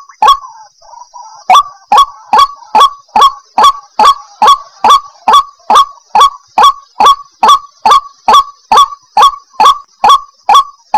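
White-breasted waterhen (ruak-ruak) calling a fast, even series of harsh 'kruak' notes, about two and a half a second, with one short break about a second in before the series resumes.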